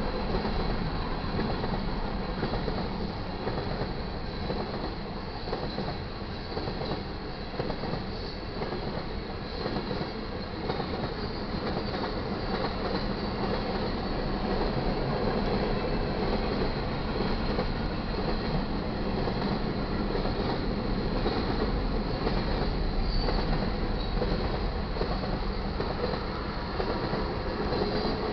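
Freight cars (tank cars and covered hoppers) rolling steadily past a grade crossing: a continuous rumble and clatter of steel wheels on the rails.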